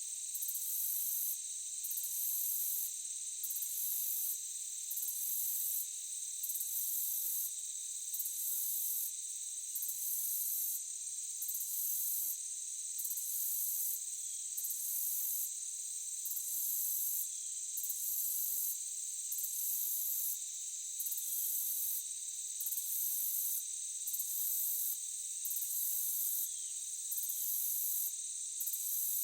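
Forest insect chorus: a steady, high-pitched chirring with a still higher layer that pulses on and off about every second and a half.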